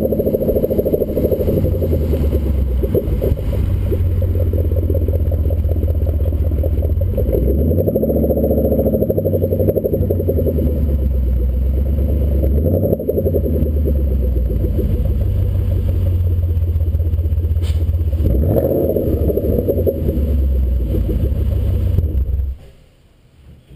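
2014 Ford Mustang GT's 5.0-litre V8 running through a Roush axle-back exhaust while driving, rising and falling in pitch a few times; the sound cuts off suddenly near the end.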